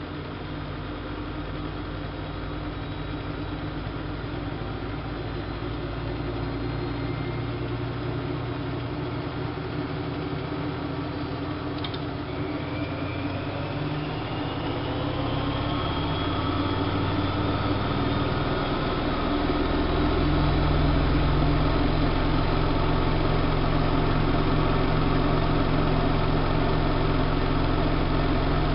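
Siemens Siwamat IQ washing machine's drum motor spinning up. Its hum and whine rise in pitch and get louder over about twenty seconds, then hold steady at spin speed.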